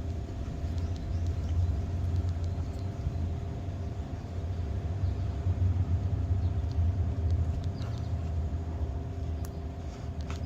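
A steady low rumble that swells and fades, with a constant mechanical hum running through it.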